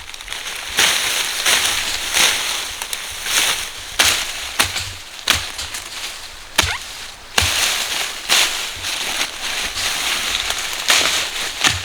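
Irregular series of sharp knocks, roughly one or two a second, over continuous scraping and rustling noise.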